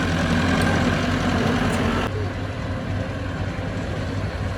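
Heavy diesel engine of earthmoving machinery running steadily with a low hum. About two seconds in, the sound changes abruptly and loses its higher part.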